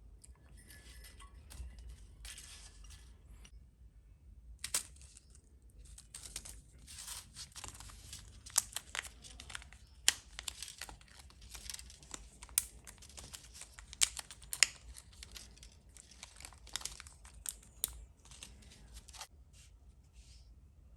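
Crinkling and tearing of plastic packaging, with scattered sharp small clicks as small parts are handled during model-kit assembly.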